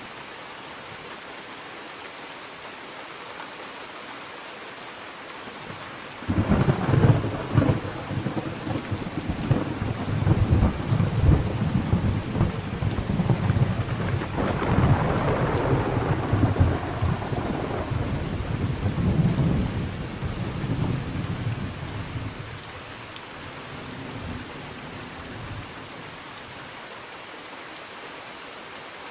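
Steady rain falling, with a thunderclap about six seconds in that breaks sharply and rolls on as a long rumble, fading out over some sixteen seconds.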